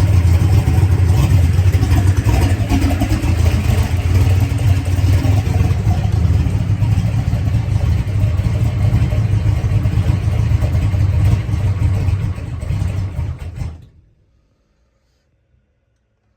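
Drag-race car engine running inside an enclosed trailer, then dying suddenly near the end, leaving near silence. The stall is unexplained: oil pressure and fuel pressure both read good.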